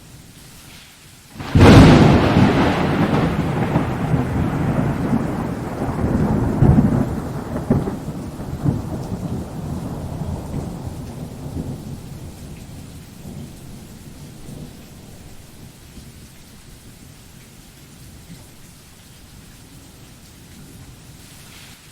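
Thunder: a sudden, loud clap about a second and a half in rolls into a long rumble with crackles, fading away over about ten seconds. Steady rain falls underneath.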